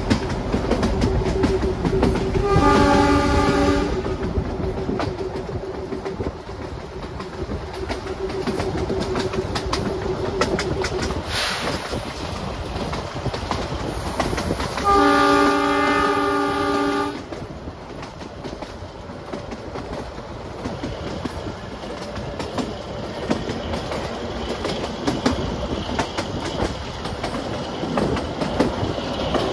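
Narrow-gauge toy train running, its wheels clattering over the rail joints, with the train horn sounded twice: a short blast a few seconds in and a longer one of about two seconds near the middle.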